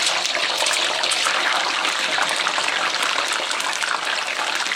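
Peeled, knife-scored hard-boiled eggs deep-frying in a pan of medium-hot oil, a steady dense sizzle and crackle. This is the first frying that blisters the egg whites into 'tiger skin'.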